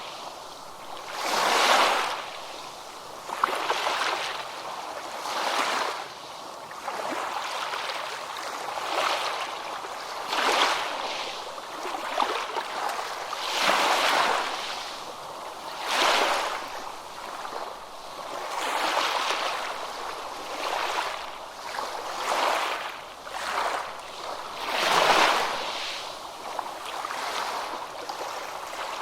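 Ocean waves breaking and washing on a beach, a steady surf that swells and ebbs every two to three seconds, with a stronger break about 25 seconds in.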